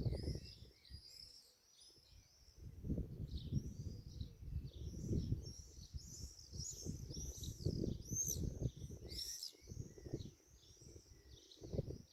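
Many small birds chirping together in a dense, overlapping chatter of short high calls, over gusts of low rumbling noise that come and go.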